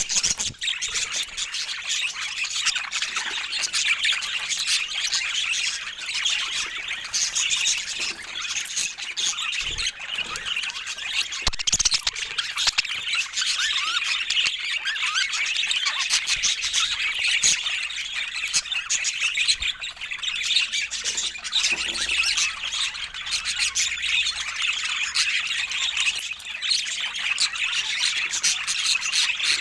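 Budgerigars chattering and warbling continuously, a dense stream of rapid chirps, squawks and squeaky trills without pause.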